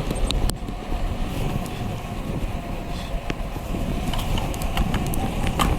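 Steady low rumble of riding a bicycle on a road, with wind on the microphone and a few sharp clicks and rattles.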